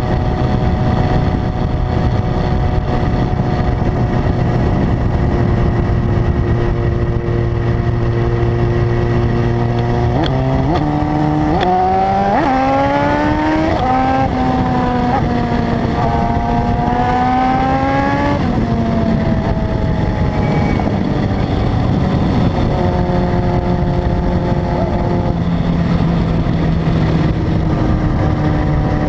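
Honda CB900F's air-cooled inline-four engine and exhaust while riding: steady running, then accelerating hard through the gears about a third of the way in, the pitch climbing and dropping back at each shift, before easing off to steady cruising again.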